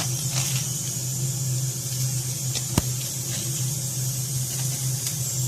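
Steady hiss of food cooking on a kitchen stove, over a steady low hum, with one sharp click about halfway through.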